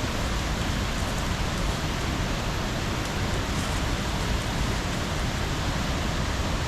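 Steady rushing and splashing of creek water over rocks, an even noise with no distinct strikes.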